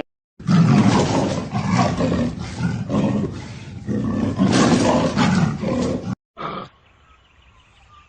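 A large animal giving a run of loud, rough calls in several swelling pulses, cut off suddenly about six seconds in, followed by a brief fainter call.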